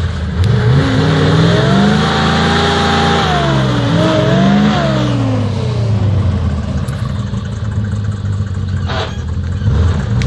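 GAZ-66 truck engine revving hard: the pitch climbs, holds, dips and climbs again, then falls back about six seconds in and runs on steadily at lower revs.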